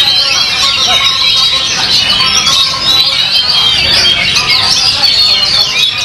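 Several songbirds singing at once: a dense, continuous tangle of quick whistles and trills.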